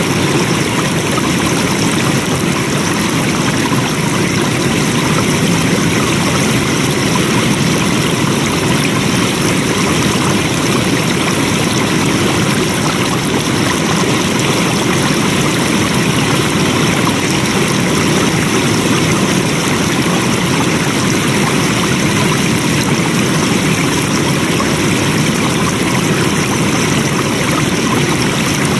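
Flowing water rushing steadily, a constant full hiss with no breaks or changes.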